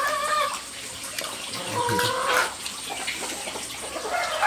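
Chickens clucking: short calls right at the start and again about two seconds in, over scattered light clicks.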